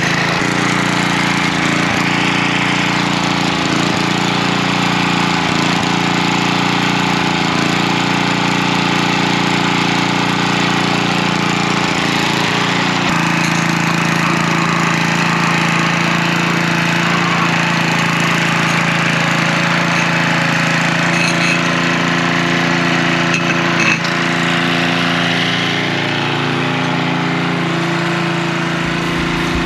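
Craftsman edger's 3-horsepower Tecumseh engine running steadily, with a change in its note about halfway through.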